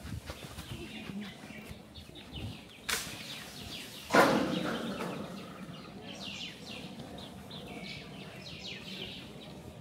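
Small birds chirping and singing, a run of quick falling notes repeated again and again. A sharp click about three seconds in, and a sudden loud thump a little after four seconds.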